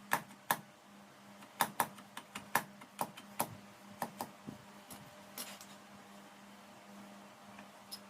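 A series of sharp, light taps or clicks at an irregular pace, several a second, thinning out about halfway through, over a steady low hum.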